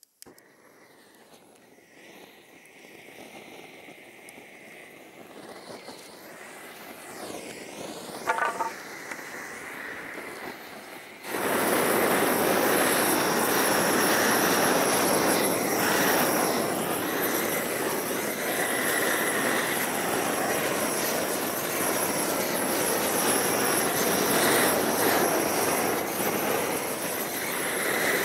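Gas roofing torch burning with a steady roar, the kind used to melt torch-on bitumen roll roofing. The roar starts abruptly about eleven seconds in, after a quieter noise that slowly grows louder.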